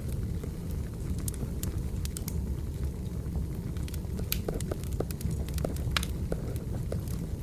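Wood fire burning: a steady low rumble with scattered sharp crackles and pops throughout.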